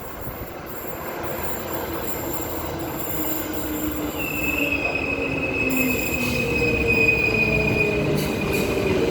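Six-car electric multiple-unit train pulling into the platform, growing louder as it comes in. A whine slowly drops in pitch as it slows, and a high squeal joins about four seconds in.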